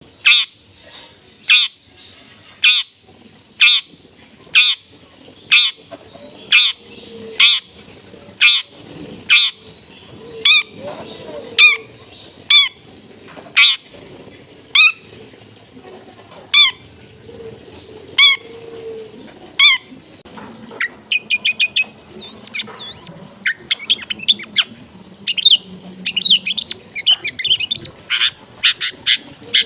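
Long-tailed shrike (cendet) calling: a loud, harsh note repeated about once a second, then, about two-thirds of the way through, a quicker run of varied chattering and twittering notes.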